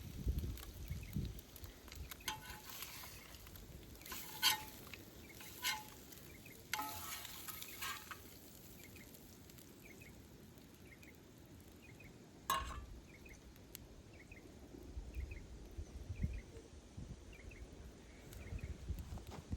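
Burger meat sizzling over a campfire. Several scrapes and clinks of a cooking utensil come in the first eight seconds, and one more about twelve seconds in.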